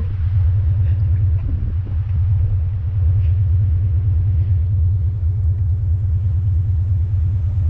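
Vehicle engine idling: a steady low rumble, with a few faint knocks in the first two seconds.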